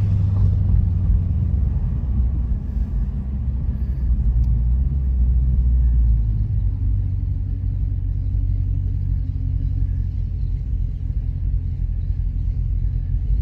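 Dodge Challenger Scat Pack's 6.4-litre HEMI V8 running at low revs, a steady deep rumble with no revving.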